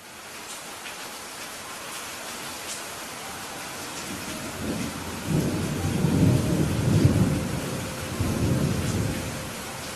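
Steady rain hissing, with a rolling rumble of thunder that builds about halfway through, peaks shortly after, and fades out near the end.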